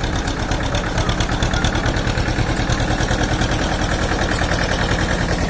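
Tractor engine running steadily with a fast, even pulse.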